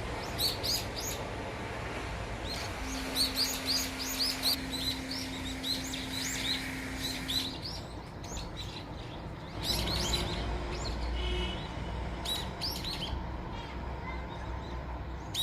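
Small birds chirping in quick series of short, high notes, cluster after cluster, with a low steady hum underneath for a few seconds in the first half.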